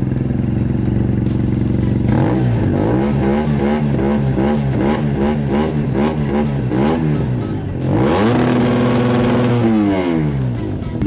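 Motorcycle engine idling, then revved in a string of quick throttle blips, about two a second. It then takes one longer rev, held for about two seconds, before dropping back to idle.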